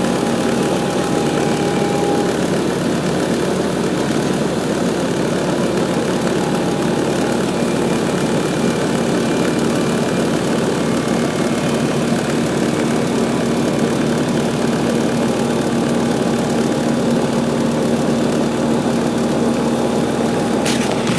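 1988 Rheem 4-ton central air conditioner's outdoor unit running steadily just after start-up: the condenser fan's rush of air over a steady compressor hum. A higher whine drops out about two seconds in.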